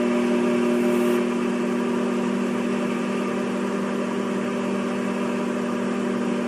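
A steady, engine-like drone at one constant pitch, with a noisy hiss above it that thins out about a second in. It plays as a single sound-effect clip, with no rise or fall in pitch.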